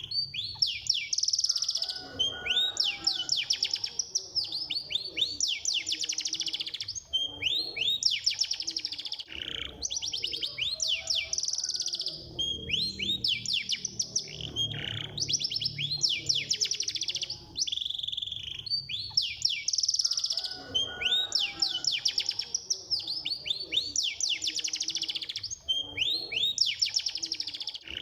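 Domestic canary singing a continuous song of fast, tightly repeated trills, each run of rapid sweeping notes giving way to a new one every second or two.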